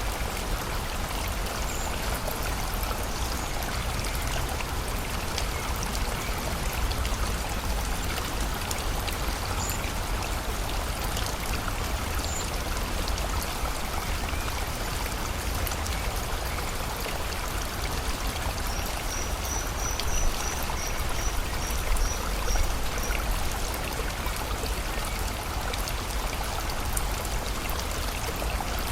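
Steady rush of flowing river water and rain. A bird gives a few single high chirps, then a quick run of about ten high notes about two-thirds of the way through.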